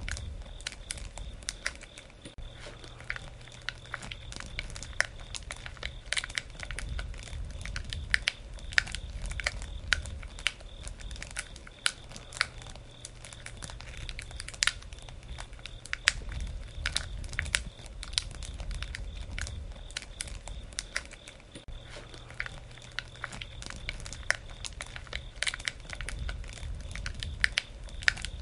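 Wood campfire crackling, with frequent sharp pops and snaps over a low rumble that swells and fades.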